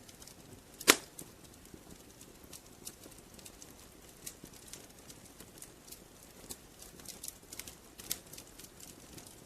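Wood fire crackling in a fireplace: scattered small snaps and ticks over a low steady hiss of burning, with one loud pop about a second in.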